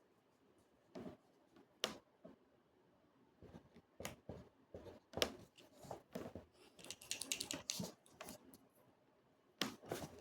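Pen or pencil on paper at a desk: scattered light taps and clicks, and a run of quick scratchy writing strokes about seven seconds in.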